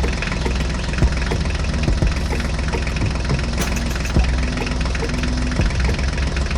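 A small engine running steadily at idle, with irregular sharp knocks and clicks over the hum.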